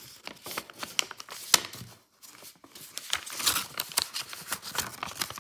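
Sheet of paper being handled and folded: crisp rustles, crinkles and sharp creasing clicks, with a brief pause a little after two seconds and busier handling towards the end.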